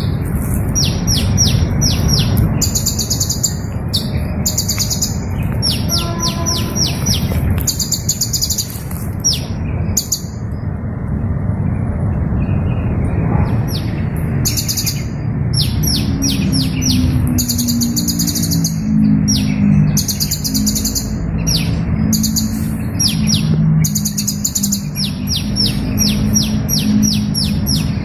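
Small bird singing high, thin chirps in repeated phrases, each with a rapid run of short ticking notes, with a brief pause about halfway through. A low rumble runs underneath, and a low steady hum comes in around the middle.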